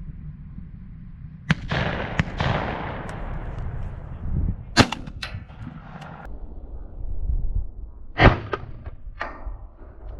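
Shotgun shots at doves: several sharp reports, the first trailing off in a long rolling echo, with the loudest cracks about five and eight seconds in.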